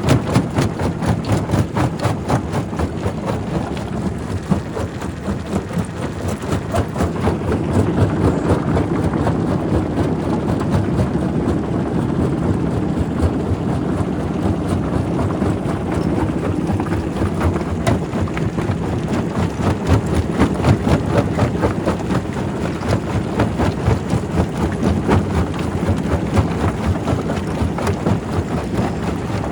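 Primary rock crusher running: a steady heavy rumble with a dense, continual clatter of knocks and cracks as stone is broken.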